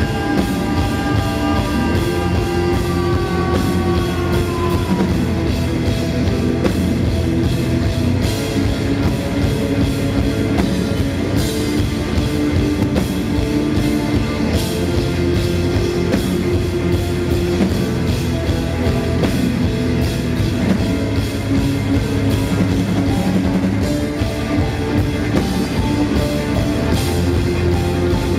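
Rock band playing live with a full drum kit, guitars and bass keeping a steady beat in an instrumental passage. A high held note slides down over the first few seconds.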